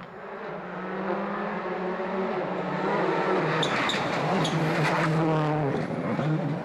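A World Rally Car's engine revving hard, its pitch rising and falling through gear changes, with tyre and road noise. It grows louder over the first few seconds.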